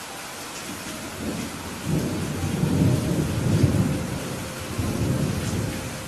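Steady rain with a long roll of thunder: a low rumble that builds about a second in, is loudest midway, and fades out near the end.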